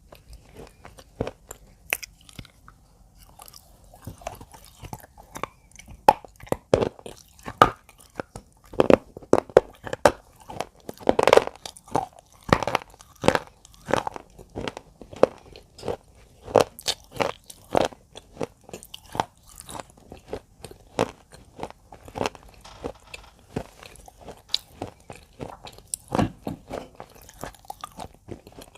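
Close, irregular crunching, several sharp crunches a second in uneven clusters. It is sparse at first, busiest and loudest in the middle, then thins out.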